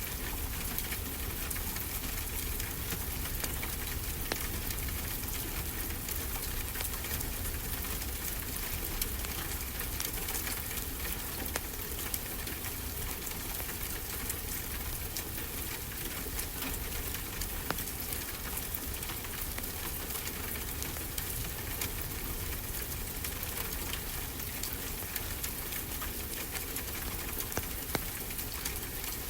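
Wood fire crackling with frequent small, sharp pops over a steady low rush of ocean waves.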